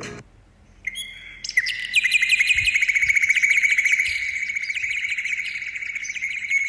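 A small bird chirping in a fast, steady run of high chirps, starting about a second and a half in after a single opening chirp.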